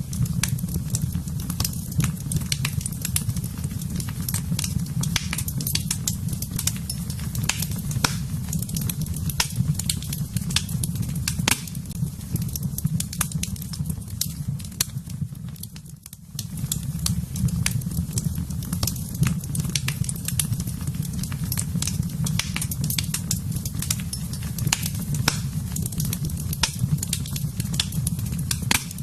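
Fire burning in a fireplace: a steady low rumble of flames with frequent sharp crackles and pops from the burning wood. It dips briefly about halfway through, then carries on.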